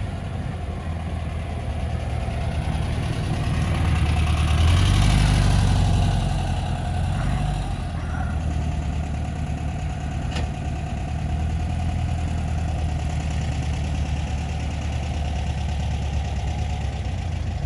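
Car engine running steadily, growing louder for a couple of seconds about four to six seconds in, then settling back.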